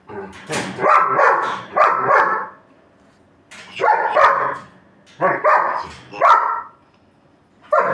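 German shepherd barking in play, several loud barks in three bouts with short pauses between them.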